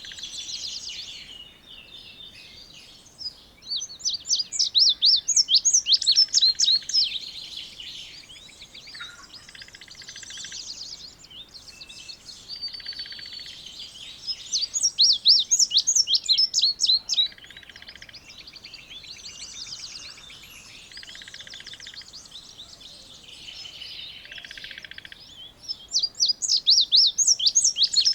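Indigo bunting singing: a loud song of rapid high notes, given three times about every eleven seconds, with fainter bird calls between the songs.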